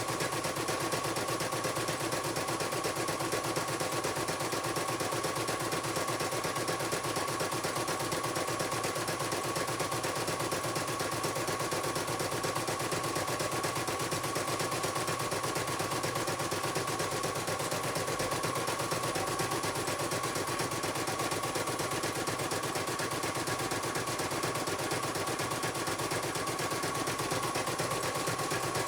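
CNY computerized embroidery machine stitching at speed: fast, even needle strikes in a continuous rattle over a steady motor whine.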